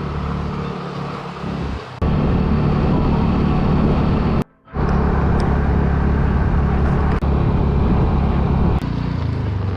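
Motorcycle engine running steadily under way, with road and wind noise, in several short clips joined with abrupt cuts and one brief dropout near the middle.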